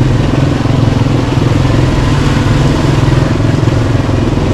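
Yamaha Kodiak 700 ATV's single-cylinder four-stroke engine running steadily under way on a trail.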